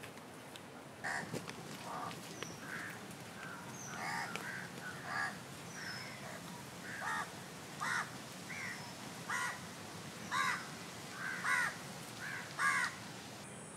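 Birds calling: short harsh calls repeated about once a second, getting louder toward the end, with a few faint high whistled notes from smaller birds now and then.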